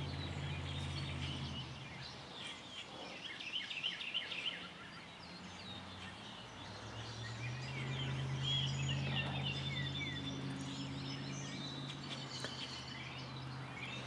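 Scattered bird chirps and calls over a low steady hum.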